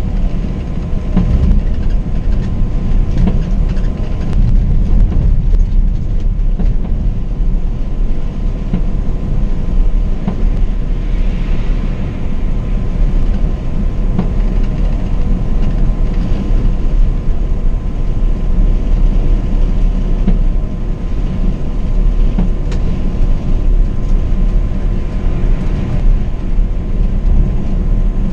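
Scania K420 double-decker coach underway on the highway: a loud, steady low rumble of engine and road noise, with small rattles and clicks throughout.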